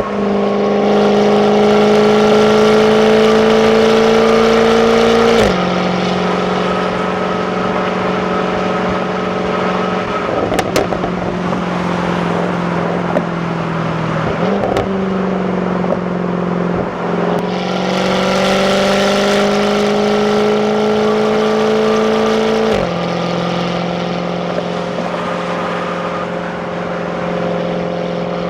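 Jaguar F-Type's supercharged 5.0-litre V8 on its stock exhaust, pulling through the gears at moderate throttle. The engine pitch climbs and drops abruptly at an upshift twice, once about five seconds in and again past the twenty-second mark. In between it eases off for a few seconds with a few short clicks.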